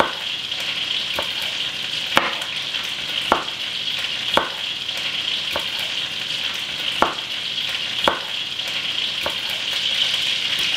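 Chicken shallow-frying in oil with a steady sizzle. A chef's knife strikes a bamboo cutting board about once a second as bell peppers are sliced.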